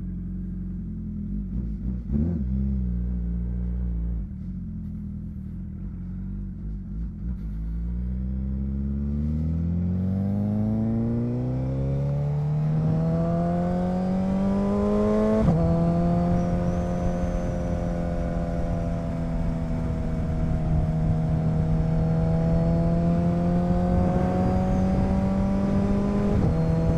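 Motorcycle engine pulling away: low, steady revs for the first several seconds, then rising steadily in pitch under acceleration, dropping suddenly at a gear change about halfway, then holding a fairly steady cruising note, with another brief dip near the end.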